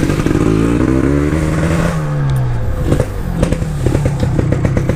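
Yamaha RX-King 135cc two-stroke single-cylinder motorcycle accelerating away, the engine pitch climbing and then dropping about two seconds in as it changes gear, then pulling on.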